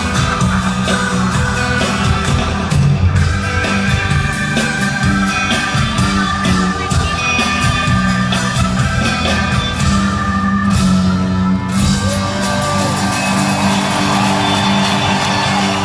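Live rock band playing a loud guitar-led instrumental passage.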